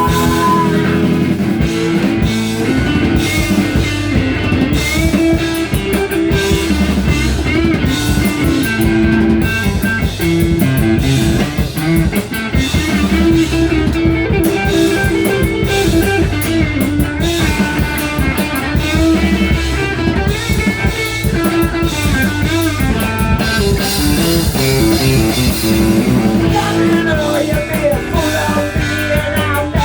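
Rock music with electric guitar and a drum kit playing an instrumental passage, without vocals.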